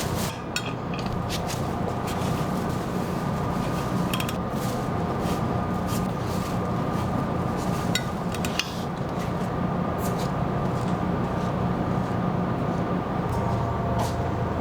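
A steady mechanical hum with scattered sharp metallic clicks and clanks throughout.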